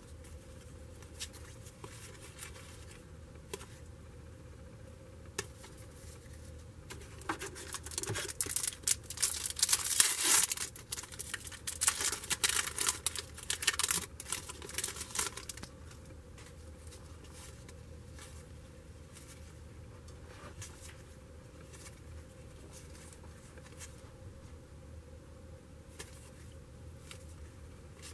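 Crinkling and tearing of a wax-pack wrapper for several seconds in the middle, loudest about ten seconds in, with light clicks and slides of cardboard trading cards being handled before and after.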